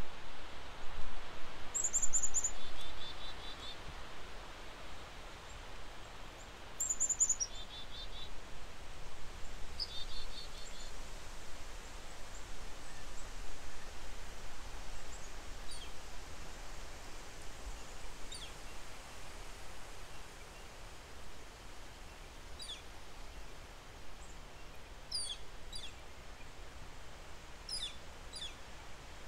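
Wild birds calling outdoors over a steady wind hiss: a few short, high, clear calls in the first ten seconds, then fainter scattered chirps later on.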